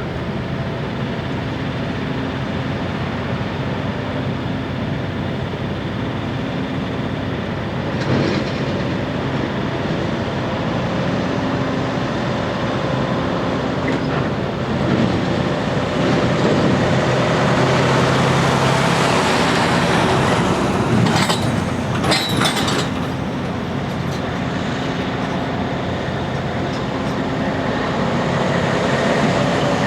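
Heavy diesel engines running steadily, louder for a while about halfway through, with two brief high-pitched sounds about two-thirds of the way in.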